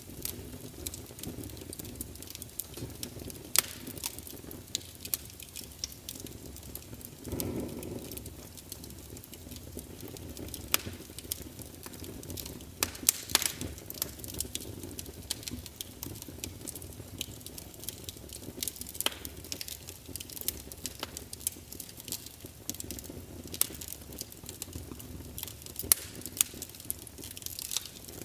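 Wood fire burning, with irregular sharp crackles and pops, some loud, over a steady low rush of flame; a brief louder flare of the rush about seven seconds in.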